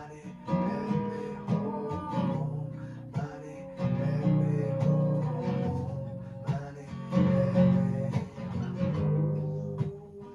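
Acoustic guitar being strummed, playing chords in a steady rhythm.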